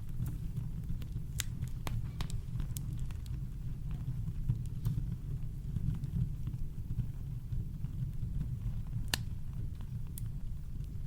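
Campfire crackling: sparse sharp pops and snaps of burning wood over a steady deep rumble of brown noise, with one louder pop about nine seconds in.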